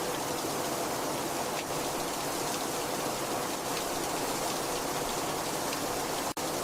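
Heavy rain falling steadily: a dense, even hiss with faint scattered drop taps. It cuts out for an instant near the end.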